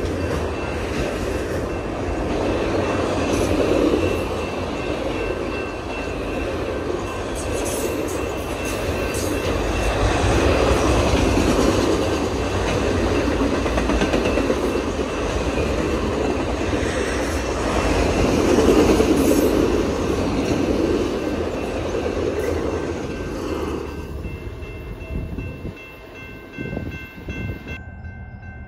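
Long freight train of autorack cars rolling past at speed: a steady rumble with wheel clatter on the rails, swelling and easing as the cars go by, then dying away sharply near the end.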